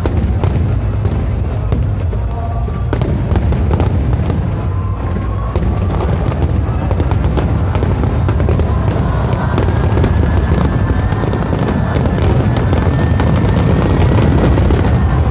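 Fireworks display: a dense, continuous run of sharp cracks and booms over a heavy low rumble, with bursts crowding closer together in the second half.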